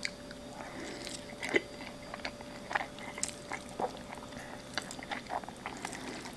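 Close-miked chewing of a mouthful of creamy carbonara pasta, with soft mouth clicks and smacks at irregular intervals.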